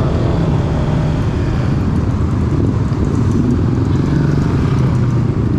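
Motorcycle engines running together in a steady low rumble.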